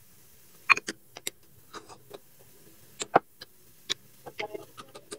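Close-miked chewing and mouth sounds of a person eating caramelized pork and rice: irregular soft clicks and short wet crackles, with a louder click a little under a second in and another about three seconds in.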